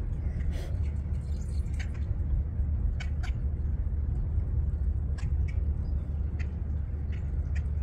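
Birds giving short, high calls every second or so over a steady low rumble.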